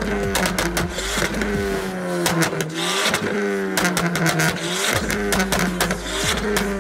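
Car engines revving, their pitch rising and falling several times, with sharp cracks in between.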